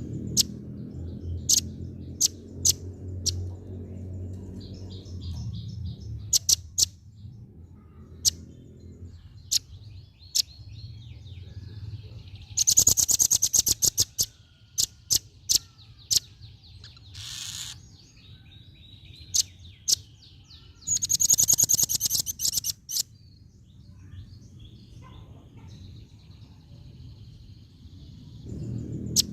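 Female velvet-fronted nuthatch (rambatan paruh merah) calling: sharp, separate chip notes with two fast, rattling runs of notes, one around the middle and one a few seconds later.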